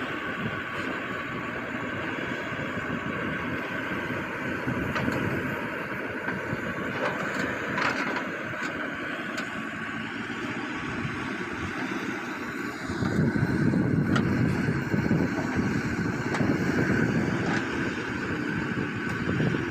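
Engine of a working construction machine running steadily, growing louder and deeper about thirteen seconds in.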